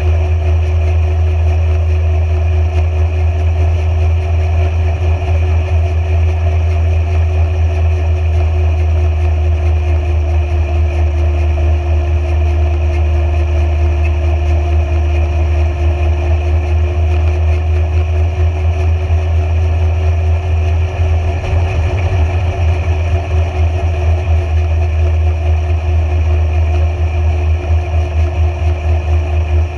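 A vehicle engine running steadily with a heavy low rumble and a constant hum that barely changes in pitch.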